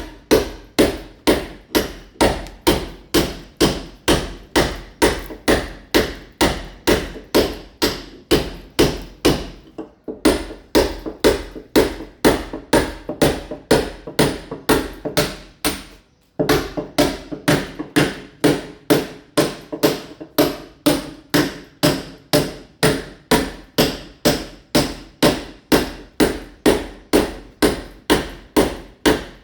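Hammer blows chipping a masonry wall to key it for ceramic tile, struck in a steady rhythm of about two to three blows a second. There are two brief pauses, about a third of the way in and just past halfway.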